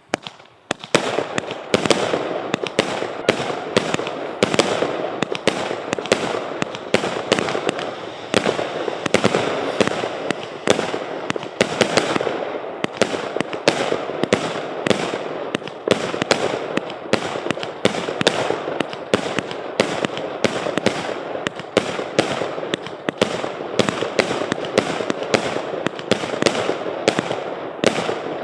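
A 200-shot, 0.8-inch (20 mm) firework battery cake firing in rapid succession, starting about a second in: a continuous stream of sharp shots over a dense crackle.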